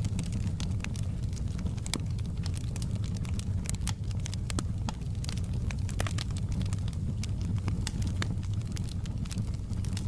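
Campfire burning: a steady low rumble under frequent, irregular sharp crackles and pops.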